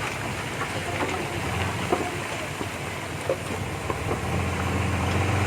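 Diesel engine of heavy earthmoving machinery running steadily, getting louder about four seconds in, with scattered short metallic clanks and knocks.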